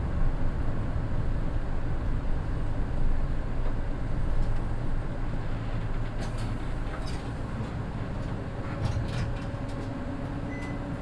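Mitsubishi Fuso Aero Midi bus with its naturally aspirated 6M61 diesel engine running, a steady low rumble that eases off over the second half. A few clicks sound in the middle and later part, and a steady hum comes in near the end.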